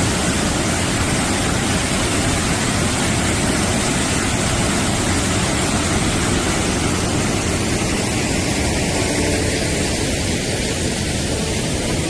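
Steady rushing of water from the Cheonggyecheon stream, a loud even hiss with no breaks.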